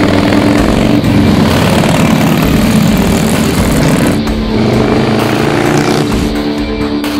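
Harley-Davidson V-twin running loud through a Bossley Reventon all-stainless header and large-bore megaphone exhaust, its note rising in pitch in the second half as the bike accelerates.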